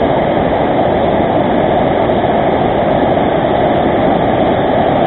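Waterfall on a river in heavy flow: a loud, steady rush of water.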